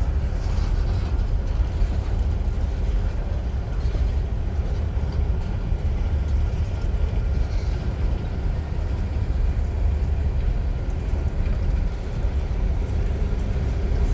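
Union Pacific freight train rolling past slowly with a steady low rumble.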